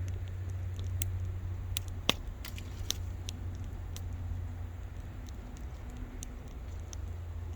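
Wood campfire crackling, with irregular sharp pops from the burning wood, one louder pop about two seconds in. A steady low rumble runs underneath.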